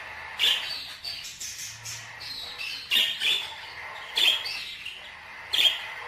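Ornamental pet birds calling: four loud calls spaced about a second or more apart, with softer chirps in between.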